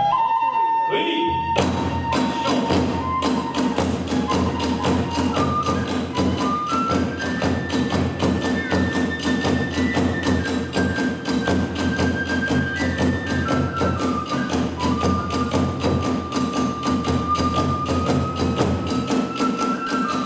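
Kagura festival music: a transverse bamboo flute plays a held, slowly stepping melody over fast, even drum beats and hand-cymbal strikes. The percussion comes in about one and a half seconds in, with the flute sounding alone before it.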